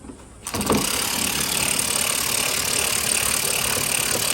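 A handheld power tool runs steadily for about four seconds, starting about half a second in and cutting off suddenly, most likely an air or electric ratchet driving a bolt during engine removal.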